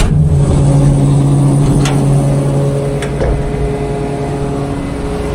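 Cotton module builder running steadily, its engine and hydraulics driving it on an empty cycle as a check for leaks after hydraulic work. A couple of faint clicks come about two and three seconds in.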